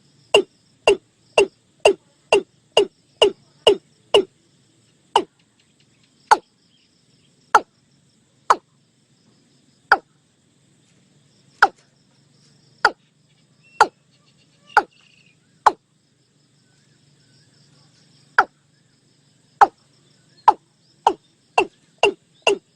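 Watercock calling: a series of short, loud notes, each falling slightly in pitch. They come about two a second at first, slow to about one a second in the middle, and speed up again near the end.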